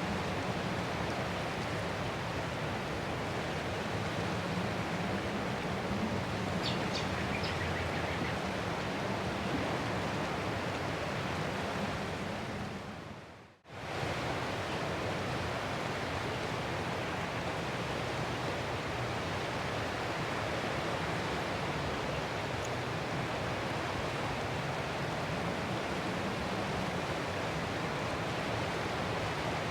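Ocean surf washing continuously on a shore, a steady even rush of water noise. About halfway through it fades out for a moment and comes straight back.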